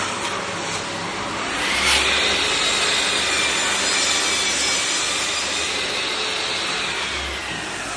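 Floor sanding machine running over wooden floorboards: a steady grinding hiss with a motor whine that dips and rises as the load changes.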